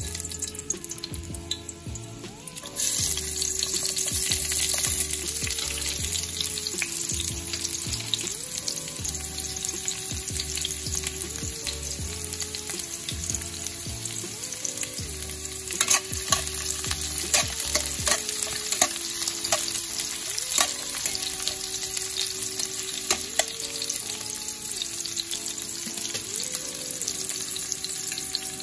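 Sliced onions and garlic frying in hot oil in a metal kadai. A loud steady sizzle starts suddenly about three seconds in, as the food goes into the oil. Midway there are sharp clicks of a spatula against the pan during stirring, with faint background music under the first two-thirds.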